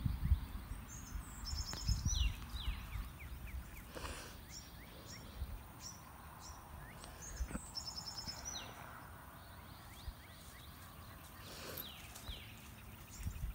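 A songbird singing the same phrase twice, about six seconds apart: a quick high trill, then a few downward-sliding notes. Low rumbling noise sits under it near the start.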